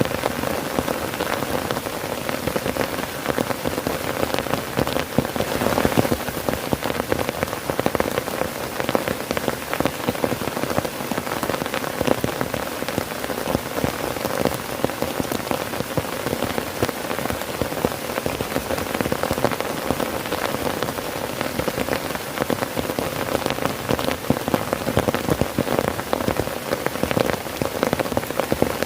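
Heavy rain falling on a tent, a dense, steady patter of countless drops that does not let up.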